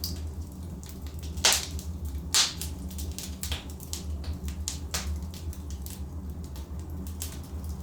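Burning logs crackling in a fireplace: a steady run of small pops and snaps, with two louder sharp cracks in the first half, over a steady low rumble of the fire.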